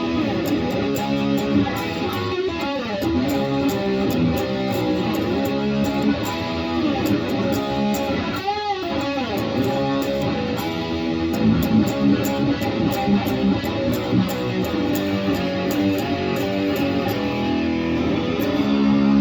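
Guitar playing continuously, with a sharp pitch dip down and back up about halfway through.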